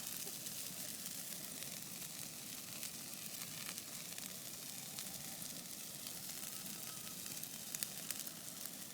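Large bonfire burning with a steady hiss and many small crackles and pops, one louder pop near the end.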